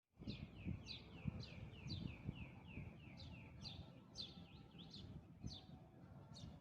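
A small bird chirping over and over, a long series of short chirps that each slide down in pitch, quicker at first and more spaced out later. Low irregular thumps and rumble run underneath.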